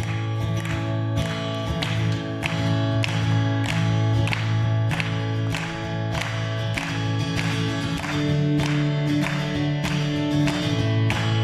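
Acoustic guitar strummed in a steady rhythm, about two strums a second, with low notes ringing underneath, in an instrumental passage with no singing.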